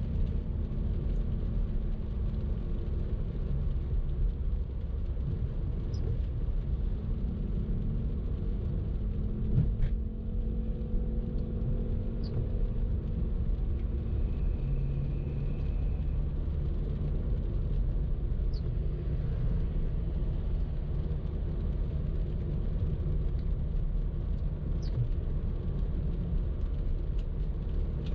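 Car driving in traffic: a steady low rumble of engine and road noise, with a single knock about ten seconds in.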